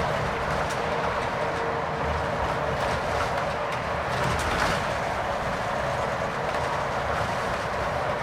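Steady road and engine noise inside the cabin of a Scania K410 coach under way, with a few faint clicks and rattles.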